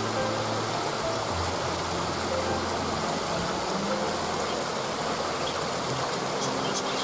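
Waterfall: water falling and rushing in a steady, even roar of white noise that does not change.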